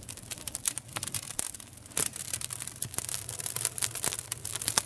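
Campfire crackling, with many quick, irregular pops and snaps.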